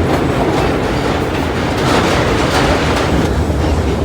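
Vintage R1/R9 subway cars running along the track: a steady rumble with the clickety-clack of steel wheels over rail joints.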